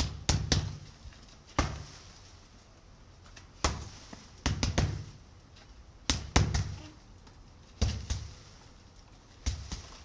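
Punches landing on a homemade punching bag filled with sand: dull thuds in quick combinations of two or three, a new combination every second or two.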